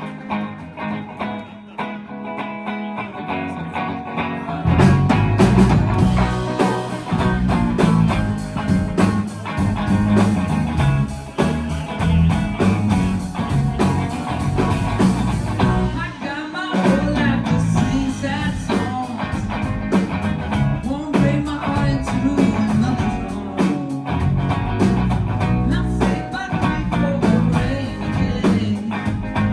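Live band playing a song with guitar and singing. The first few seconds are sparser, then the bass and drums come in fully about five seconds in.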